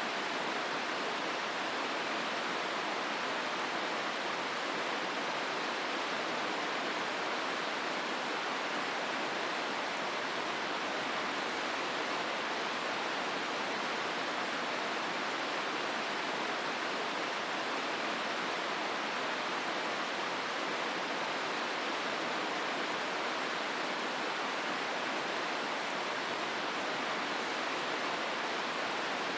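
River water rushing through a rocky gorge, the Hozu River, as a steady, even rush with no change.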